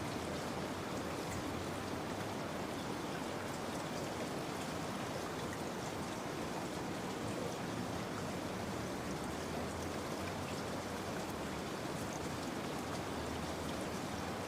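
Steady rain falling, an even hiss of many raindrops with faint pattering.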